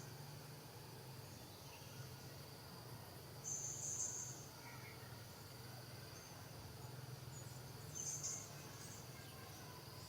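Short, high-pitched insect buzzes, one about three and a half seconds in and another near eight seconds, over a steady low hum.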